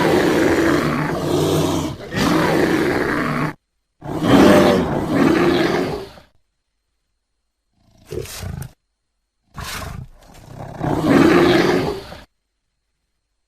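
A large animal roaring: four rough, low calls, two long ones first, then a short one and a final long one, each cut off suddenly.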